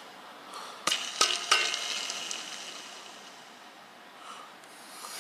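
BMW M54 belt tensioner pulley spun by hand. A few clicks about a second in, then a gritty grinding hiss from its failed bearing that fades as the pulley spins down.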